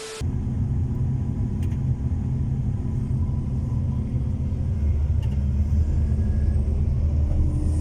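A vehicle engine running steadily with a low rumble; its note shifts slightly a little past halfway through.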